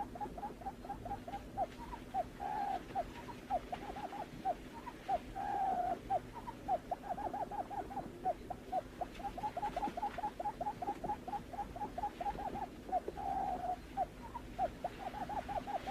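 Barred buttonquail call: a long run of short, low hooting notes repeated several times a second, with a few longer drawn notes mixed in, over a faint steady hum.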